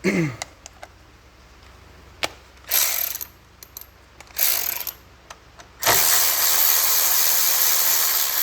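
Ratchet wrench clicking as a bolt is loosened: a few clicks, two short strokes, then a longer run of ratcheting about six seconds in.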